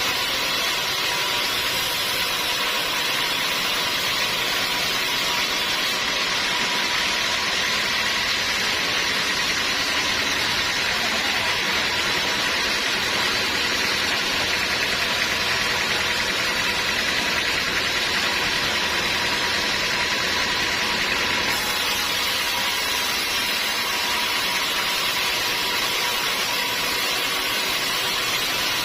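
Sawmill machinery running steadily: a constant, even mechanical noise with a steady hum underneath and no pauses.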